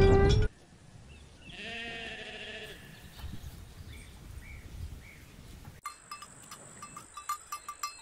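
A sheep bleats once, about a second and a half in, a wavering call lasting about a second, just after the tail of a cow's loud moo. From about six seconds in there are scattered light clicks and clinks over a steady high background tone.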